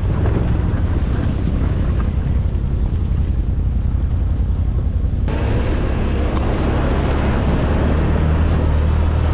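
ATV engine running steadily while riding. About five seconds in, a louder rushing noise sets in over the engine.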